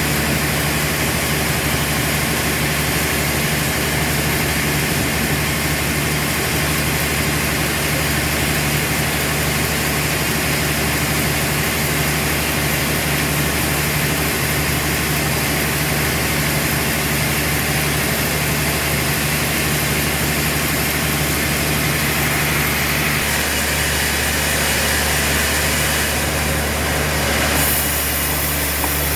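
Sawmill machinery running steadily: a constant low motor hum under a dense rushing noise, the higher noise shifting and brightening for a few seconds near the end.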